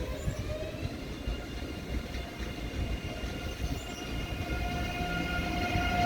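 Electric train's traction motors whining as it starts to pull away: several tones rise in pitch over the first couple of seconds, then hold steady as the sound grows louder, over a low running rumble.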